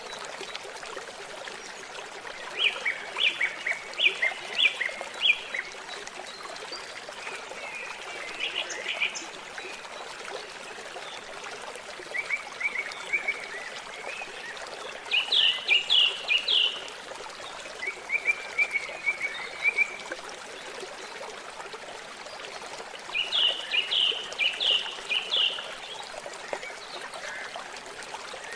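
A songbird singing short phrases of quick repeated high notes, some phrases trilled, every few seconds over steady trickling water.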